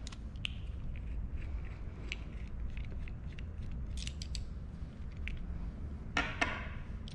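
Light clicks and taps of a plastic 13 A square-pin mains plug being handled and opened, scattered over a steady low hum.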